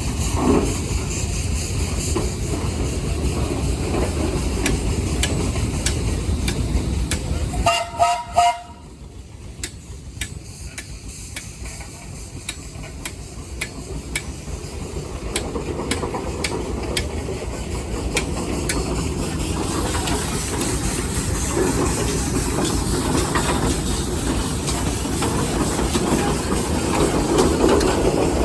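Steam engine running with a steady hiss of steam. About eight seconds in there is a short whistle-like tone; the sound then drops quieter and builds back up toward the end.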